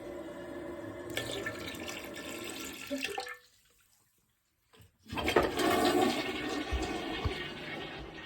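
Dirty drain water from an LG washing machine pouring and splashing, with a break of about a second and a half in the middle; the second stretch is louder.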